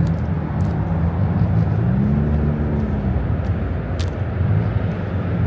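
Car engines running at idle, a steady low hum, with one engine's pitch swelling up and back down about two seconds in. A brief click near the end.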